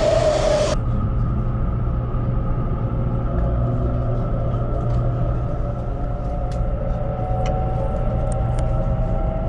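Taiwan High Speed Rail 700T train. A loud rushing of the train past the platform cuts off abruptly under a second in, giving way to a steady low rumble with a faint motor whine that rises slowly in pitch as the train pulls out of the station.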